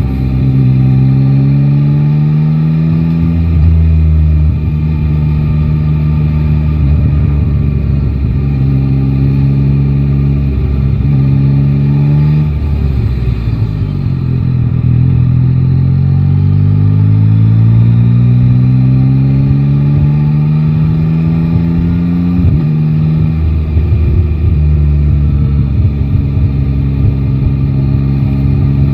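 Yamaha Tracer 9 GT's inline three-cylinder engine pulling through the gears on the road. Its pitch rises in the first few seconds and again through the middle, holds steady at a cruise, and drops for a moment about halfway through.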